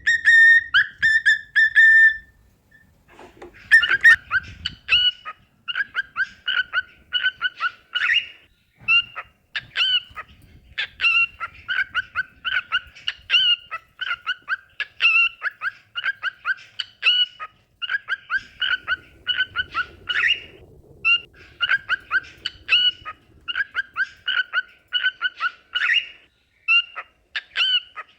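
Cockatiel song: a clear whistled note held for about two seconds, then, after a brief pause, a long run of short, quick chirped notes repeated several times a second.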